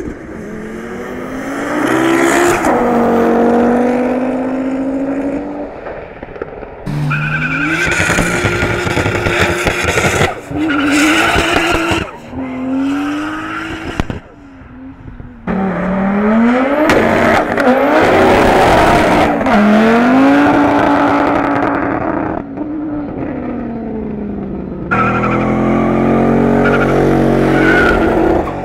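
Drag-racing cars accelerating hard in a series of short clips. Each engine's note climbs and then drops back at the gear changes, with the odd sudden change as one clip gives way to the next.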